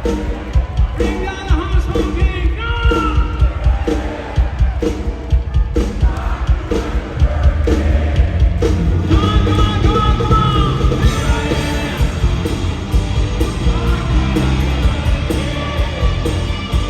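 Hard rock band playing live in an arena: a singer over distorted electric guitars, bass and a steady drum beat. The band gets fuller and louder about seven seconds in.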